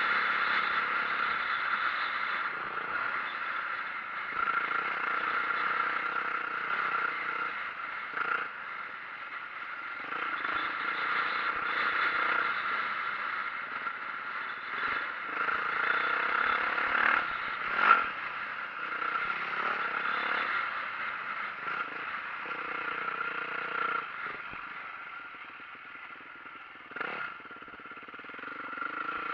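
2004 Yamaha YZ450F's single-cylinder four-stroke engine running while the dirt bike is ridden over rough trail, its note rising and easing off. Clattering and scraping from the bike over the ground, with a few sharp knocks, the loudest about two-thirds of the way through.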